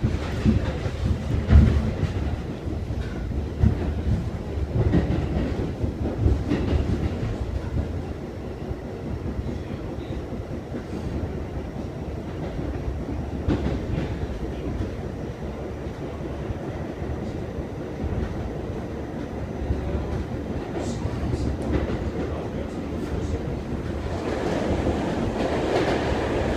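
R68 New York subway car running on the rails, heard from inside the car: wheels clacking over rail joints, with heavy thumps in the first several seconds, then a steadier rumble that grows louder near the end.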